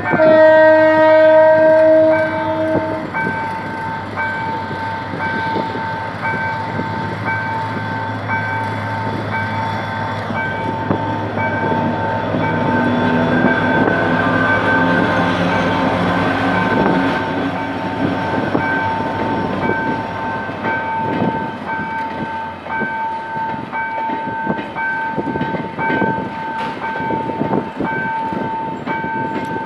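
GM GT22CW-2 diesel locomotive sounds its horn for about three seconds, then its engine runs as it pulls the passenger train past, followed by the coaches' wheels clicking over the rail joints. A level-crossing warning signal rings steadily underneath.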